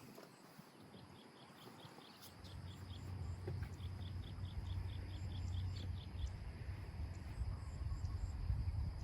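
Rural outdoor ambience: a steady series of short high chirps from a small animal, about three a second, over a low rumble that builds up about two seconds in.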